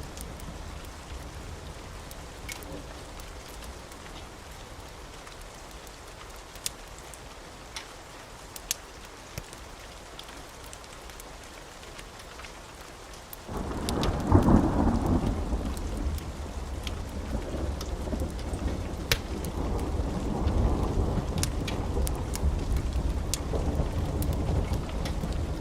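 Wood fire crackling, with scattered sharp pops over a soft hiss. About halfway through, a much louder low rushing rumble sets in suddenly and carries on, with the crackles still heard over it.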